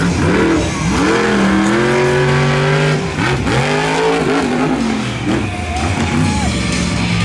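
Monster truck engine revving hard, its pitch swooping up and down with repeated throttle blips and held high for about a second near the middle.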